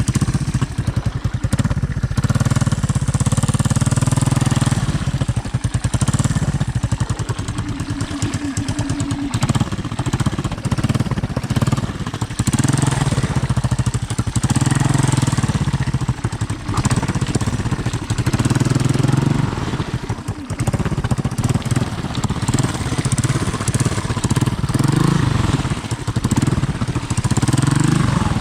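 Honda ATC 200M three-wheeler's single-cylinder four-stroke engine running continuously, its revs rising and easing every few seconds as the throttle is worked.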